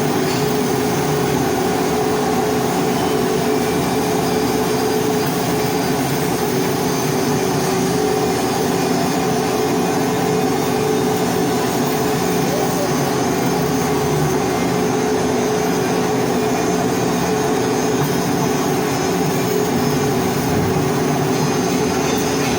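Welding equipment running steadily during pipe hardfacing: a constant hum with a dense hiss, unchanging throughout.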